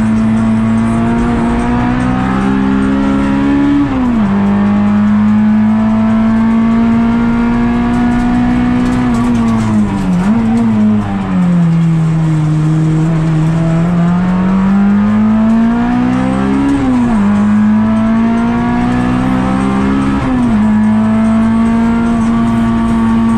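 Honda Integra Type R (DC2)'s 1.9-litre Toda-built four-cylinder engine at high revs on a track lap, heard from inside the cabin. Its pitch climbs under throttle and drops sharply four times at gear changes or lifts.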